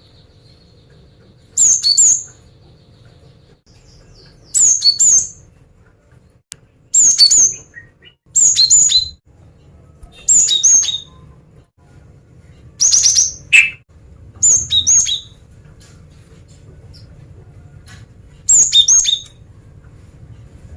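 Female cinereous tit calling: eight short bursts of sharp, high chirps, each a quick run of two or three notes, coming every two to three seconds.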